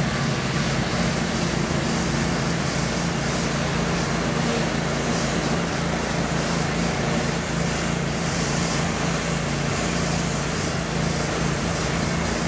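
Metrolink commuter train passing through in the rain, a steady diesel engine hum under a continuous rushing of wheels and spray.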